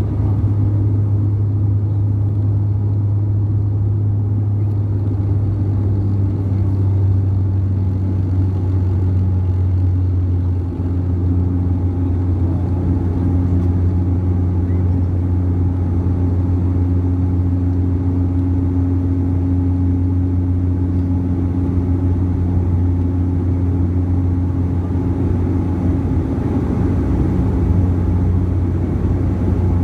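Airliner engines running steadily with a loud, deep hum and a few steady higher tones, heard from inside the passenger cabin.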